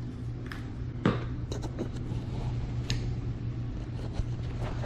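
A few scattered light clicks and taps from handling seasoning containers while seasoning fish, over a steady low hum.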